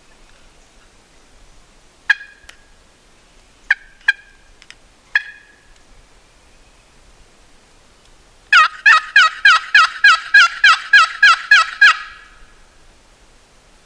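Wild turkey calling: a few short, sharp clucks, then a loud, even run of about thirteen yelps at roughly four a second, the hen-style calling used to draw in a gobbler.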